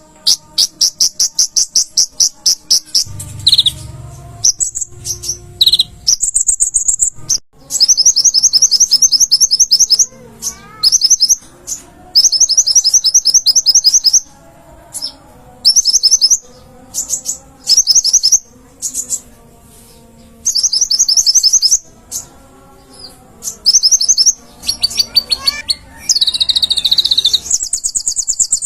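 A konin (kolibri ninja) sunbird singing in full voice: rapid, high-pitched trilled phrases of a second or two each, repeated again and again with short pauses.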